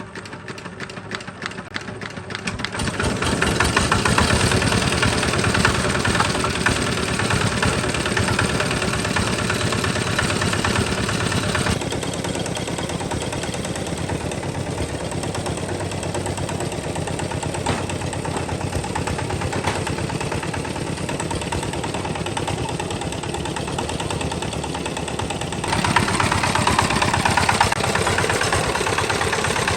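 Tractor engine running with a fast, even chugging. It builds up over the first few seconds, then holds steady, with sudden shifts in tone about twelve seconds in and again near the end.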